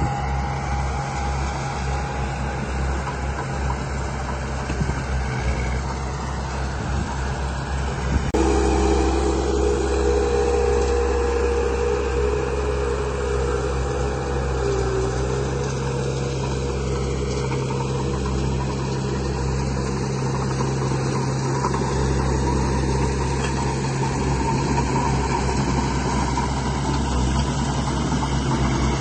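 Radio-controlled model construction machines running: a steady low engine-like hum with motor whine. About eight seconds in there is a click, the sound gets louder and a higher whine joins in, as another motor starts working.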